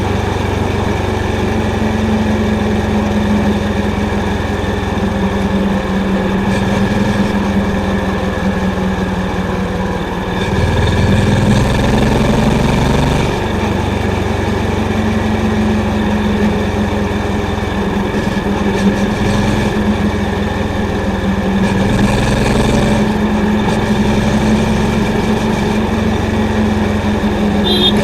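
Honda CB350's air-cooled single-cylinder engine running through its exhaust while riding, a steady deep thump. About ten seconds in it rises in pitch and gets louder for a few seconds under throttle, then settles back to a steady cruise.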